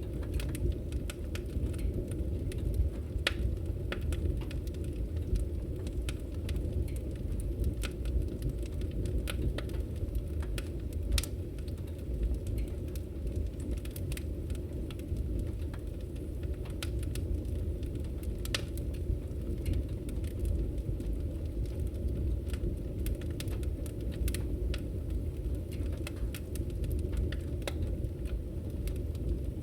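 Firewood burning: a steady low rumble of the fire with scattered sharp crackles and pops from the logs.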